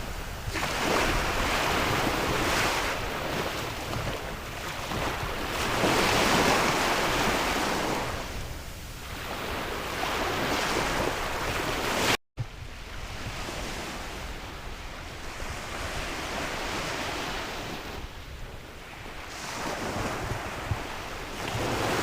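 Sea waves surging and washing in, rising and falling every few seconds, with wind rumbling on the microphone. The sound cuts out for a split second a little past halfway, then carries on somewhat quieter.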